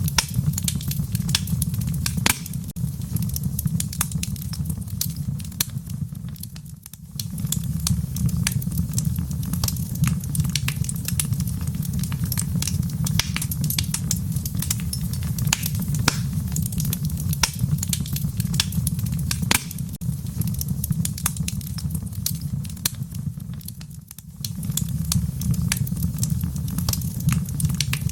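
Wood fire crackling in a fireplace: dense, irregular sharp pops and snaps over a steady low rumble. About a quarter of the way in, and again near the end, the rumble dips away for a moment before returning.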